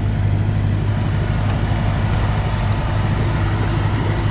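Engine running steadily, a deep even hum that holds one speed.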